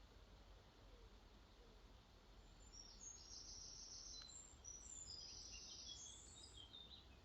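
A songbird singing two quick high twittering phrases, starting about two and a half seconds in, over the faint steady wash of a lake flowing into a river.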